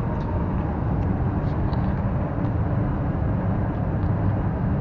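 Steady rumble of road traffic passing close by.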